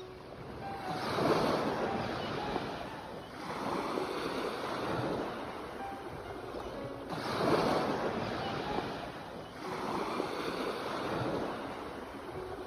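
Ocean waves washing onto the shore, four surges a few seconds apart, each swelling and then fading away.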